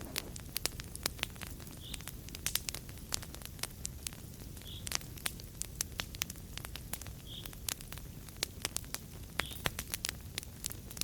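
Wood fire crackling in a fireplace: dense, irregular sharp crackles and pops over a steady low rush of flame.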